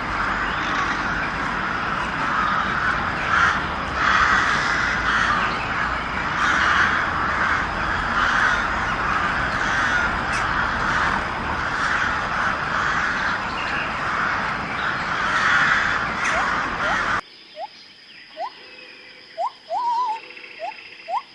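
Many crows cawing at once, the calls dense and overlapping. About 17 seconds in the sound cuts abruptly to a much quieter recording with short rising chirp-like calls.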